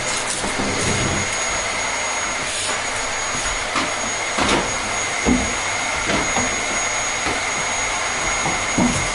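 Vacuum cleaner running steadily: a constant rushing hiss of air with a thin high whine from the motor, and a few light knocks from time to time.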